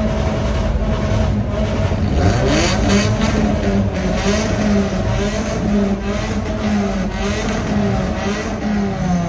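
Car engine revving hard and held at high revs, its pitch climbing about two seconds in and then wavering up and down.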